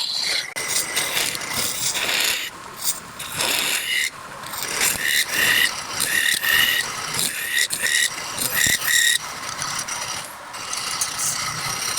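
Wood spinning on a lathe against a turning tool: a continuous rough scraping hiss, with short high-pitched squeals coming about once or twice a second through the middle stretch.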